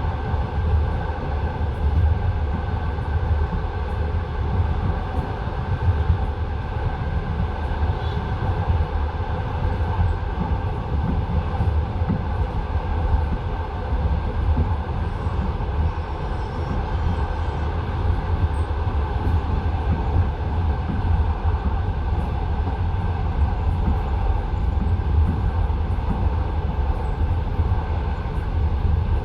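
Passenger train carriage running along the line: a steady low rumble with the clatter of the wheels on the rails, heard from inside the car.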